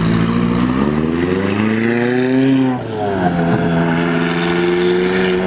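A car engine accelerating hard. Its pitch rises for about two seconds, falls sharply almost three seconds in as it shifts up a gear, then holds a steady drone.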